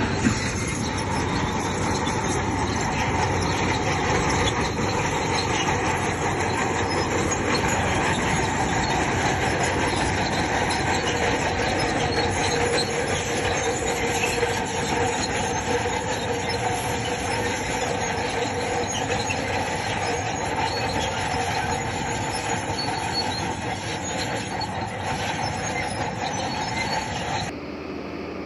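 Crawler bulldozer running and travelling on its steel tracks, with a steady squeal from the tracks over the engine; it cuts off suddenly near the end.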